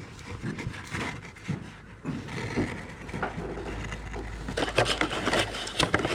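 Whisky gift box and packaging being handled: scattered knocks and light scraping, growing into denser rustling and scraping in the last second and a half.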